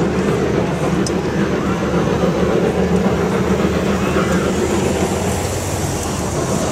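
Steam train passing with a steady, heavy rumble. A car passes close by near the end.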